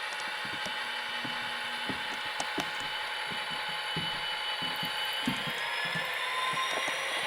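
Model diesel locomotive's Tsunami sound decoder playing an EMD 645 prime mover through its small onboard speaker, running steadily and then rising in pitch through the second half as it notches up. Scattered light clicks sound along with it.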